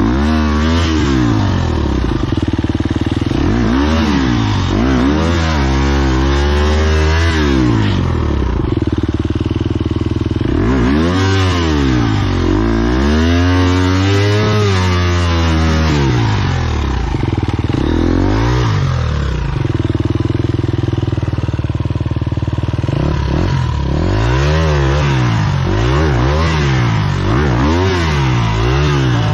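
Enduro dirt bike engine revved hard over and over, its pitch rising and falling about a dozen times with a steadier stretch about two-thirds through, as the bike is worked up a hill climb where it is stuck.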